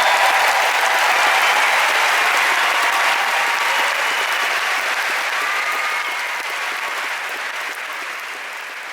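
Large concert audience applauding, the clapping fading steadily.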